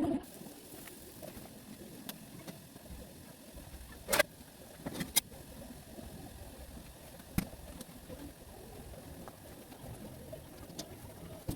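Kitchen handling sounds: a few sharp clicks and knocks, the clearest about four, five and seven seconds in, over a low steady background noise.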